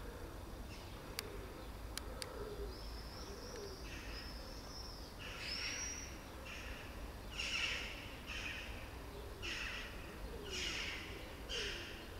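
Small birds calling: a high, drawn-out whistling call, then a series of short high chirps repeated about once a second.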